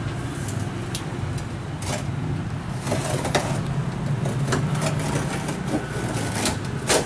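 A steady low hum with scattered clicks and knocks, the loudest knock near the end, like a large copier and its packing being handled.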